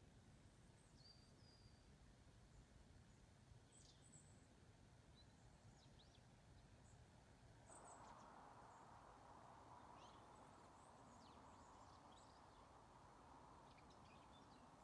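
Near silence: faint outdoor ambience with scattered, faint high chirps and calls of small birds. About halfway through, a faint steady rushing noise comes in and stays.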